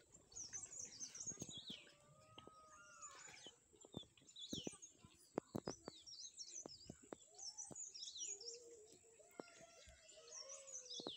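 Small birds chirping and twittering, many quick falling chirps throughout, faint, with scattered light clicks and taps.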